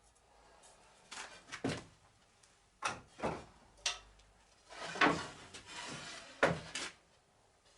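Irregular scraping and sliding strokes with a few knocks from a fireclay fireplace board being sawn and handled: short separate strokes rather than a steady cut.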